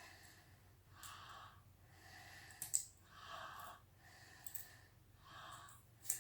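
A man breathing close to the microphone, about one breath a second, with a few sharp clicks from handling the arrow and tape.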